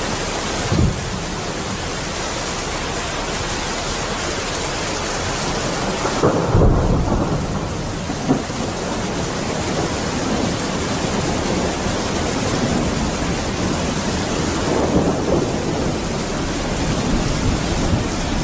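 Steady heavy rain falling, with low rumbles of thunder breaking in several times, the loudest about six seconds in.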